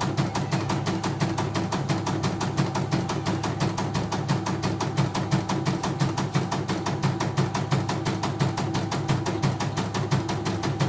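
CNY E900 computerised embroidery machine stitching, its needle bar beating out a fast, even rhythm of about seven strokes a second over a steady motor hum.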